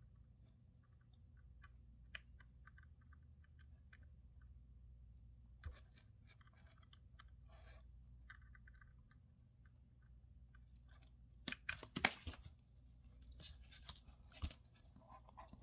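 Faint small clicks and scratchy scrapes of metal tweezers prying at the button-cell battery in a Casio MDV106 quartz watch, with a louder cluster of sharp clicks about twelve seconds in. The battery is stuck and slow to come out.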